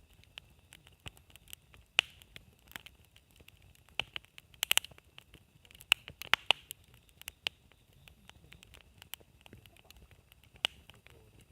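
Campfire wood burning with irregular sharp crackles and pops, several louder snaps among many small ticks, over a faint steady high hiss.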